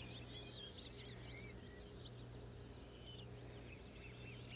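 Faint chirping of small birds: a rapid run of short, high chirps over a low steady hum.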